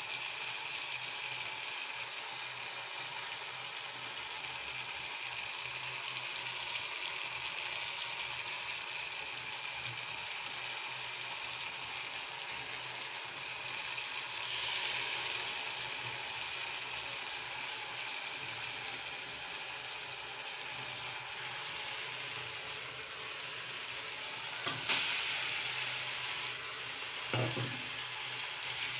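Sliced vegetables (onion, cabbage, capsicum, tomato) sizzling as they stir-fry in a wok, a steady hiss that grows a little louder about halfway through. A couple of short knocks near the end.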